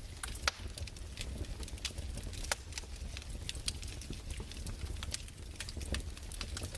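Wood fire crackling: irregular sharp pops and snaps, several a second, over a low rumble.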